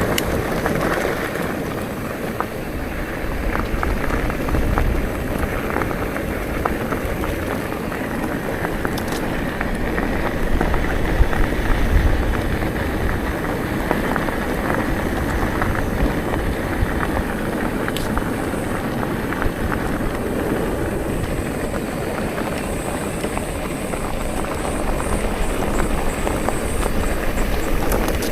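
Steady rush of wind on the microphone with the rolling noise of bicycle tyres on a forest road, scattered with small clicks.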